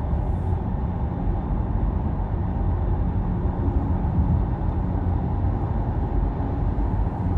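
Steady low rumble of cabin noise inside a Boeing 737 MAX 8 taxiing after landing.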